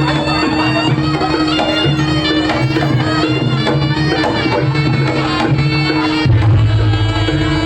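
Jaranan (kuda lumping) music: a shrill reed wind melody over a held drone and a steady drum and gong pulse, the low drumming getting heavier about six seconds in.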